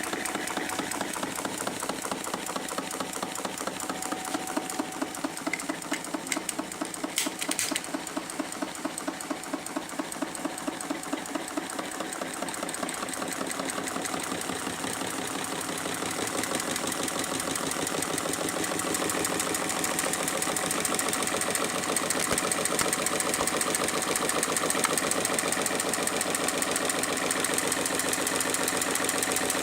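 Homemade Stirling hot-air engine running, its moving parts making a fast, even mechanical clatter that grows a little louder in the second half.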